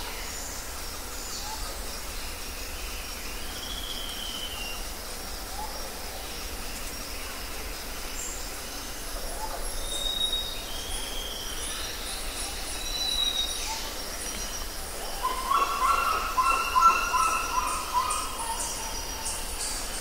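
Wild birds chirping and calling, with scattered short whistled notes over a steady outdoor hiss. A louder run of repeated calls comes about three-quarters of the way through.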